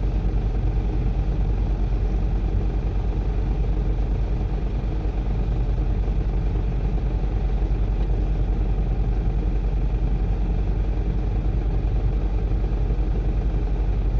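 Heavy machine engine running steadily: a low, even drone with a fast regular pulse and no change in pitch or level.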